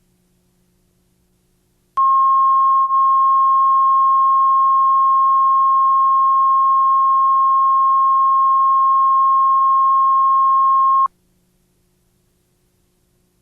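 A steady, loud, high-pitched line-up test tone on a broadcast videotape, laid between two commercials. It starts abruptly about two seconds in, drops out for a moment just after, holds for about nine seconds and cuts off sharply. Before and after it there is only a faint hum.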